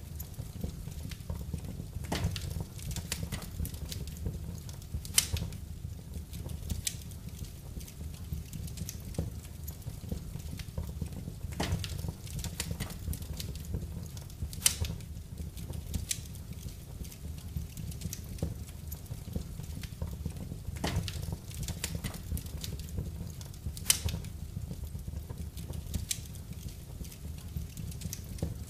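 Wood fire in a fireplace crackling, with sharp pops every few seconds over a low, steady rumble.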